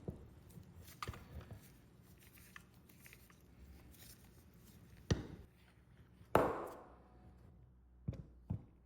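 A few scattered knocks and clatters of objects being handled on a workbench. The loudest comes about six seconds in and trails into a short scrape, and two quick knocks fall near the end.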